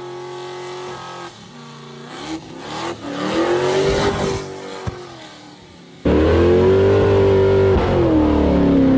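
Chevelle's engine revving hard through a burnout, its pitch climbing and falling again and again as the rear tyres spin. About six seconds in, the sound jumps suddenly louder and heavier in the bass, heard from inside the car's cabin.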